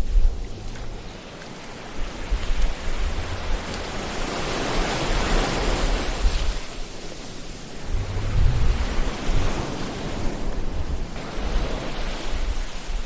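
Ocean waves breaking and washing on a shore, one wave swelling to a peak about five seconds in and another near the eight-second mark, over a gusty low rumble.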